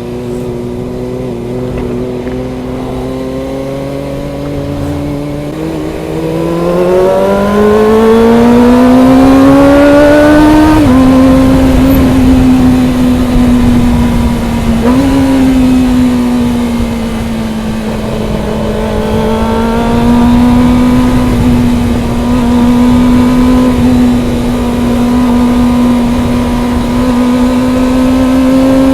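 Kawasaki ZX25R's 250 cc inline-four engine running at a high-revving cruise, with wind rushing past. The engine note climbs steadily for several seconds, drops suddenly at an upshift about eleven seconds in, and dips briefly again a few seconds later before holding steady.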